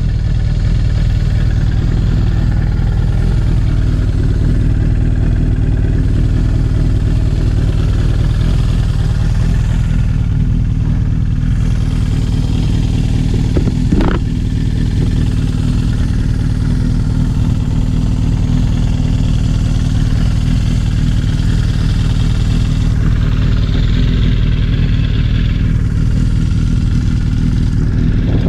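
Suzuki GSX750E air-cooled inline-four idling steadily through an aftermarket KERKER exhaust, with one brief click about halfway.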